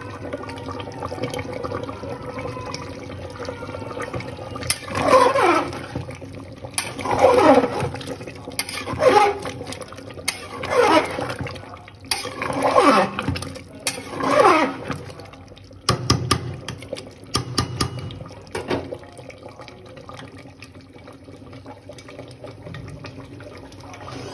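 Pressure cooker whistling as steam vents in about six loud bursts, each a whistle that falls in pitch over the hiss, followed by a few sharp clicks.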